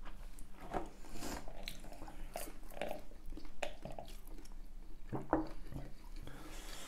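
Close-up eating sounds of McDonald's chicken nuggets being chewed and bitten, with scattered small crackles and clicks.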